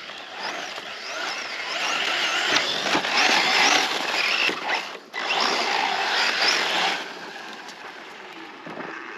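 Electric motor of a Losi RC truck whining up and down in pitch as it is driven hard through sand, with the hiss of tyres throwing sand. It is loudest in the middle, with a brief dip about five seconds in, then fades as the truck moves off.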